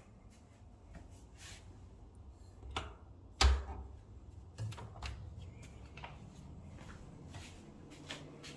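Scattered light clicks and knocks over a low room rumble, with one louder thump about three and a half seconds in.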